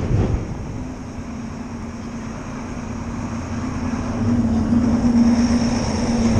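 A motor vehicle's engine running with a steady low hum that grows louder over the last two seconds or so as it comes closer. A short knock sounds right at the start.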